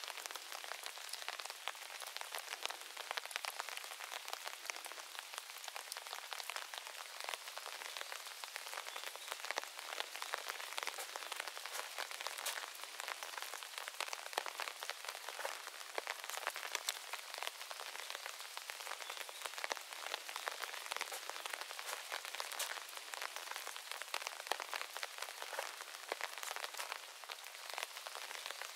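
Steady rain falling on a moss garden with gravel paths and trees: an even hiss dotted with countless small, sharp drop ticks.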